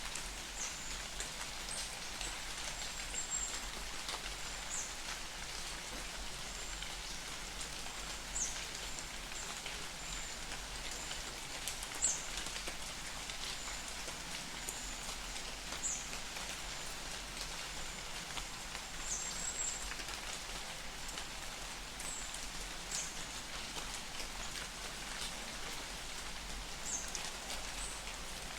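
Light summer rain falling in a forest: a steady soft patter with individual drops ticking. Short high chirps are scattered through it every second or two.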